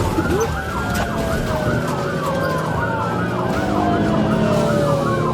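Police car siren on a fast yelp, sweeping up and down several times a second, with a slower falling wail from a second siren alongside it, over steady engine and road rumble from a moving vehicle.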